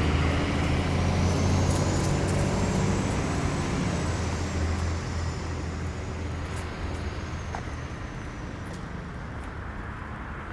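A motor vehicle's engine running close by and fading steadily as it drives away, with a faint high whine that rises and then falls.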